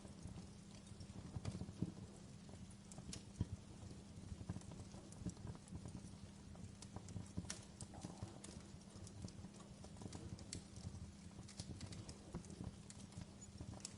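Wood fire crackling in a fireplace: faint, irregular pops and snaps over a steady low rumble.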